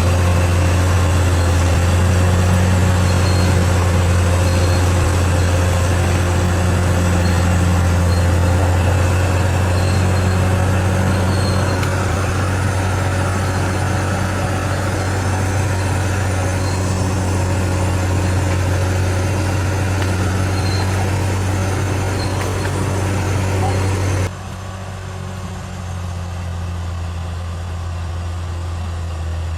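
Large bulldozer's diesel engine running steadily with a deep hum. About 24 seconds in the sound drops suddenly to a quieter, duller engine tone.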